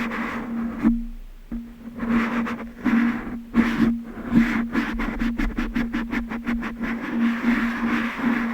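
Tapping on glass objects: separate sharp taps at first, then a quick even run of taps, about five a second, from about halfway through.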